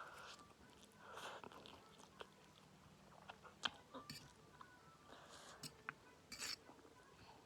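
Faint close-up mouth sounds of someone chewing spicy instant noodles with egg and peanuts, soft wet smacks with scattered small clicks.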